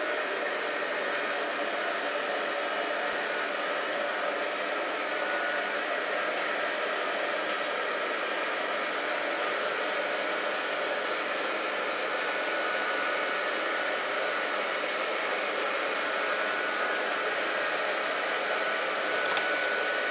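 Electric blower fan of an inflatable Christmas decoration running steadily, a constant whirring rush with a faint steady whine in it.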